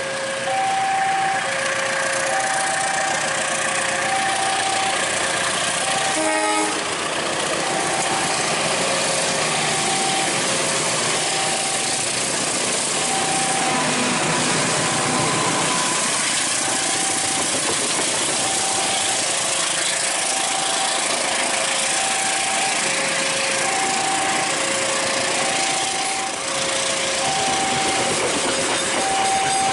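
Railway level-crossing warning alarm sounding, alternating between a higher and a lower tone in a steady repeating pattern, over the steady rumble and hiss of a passing train.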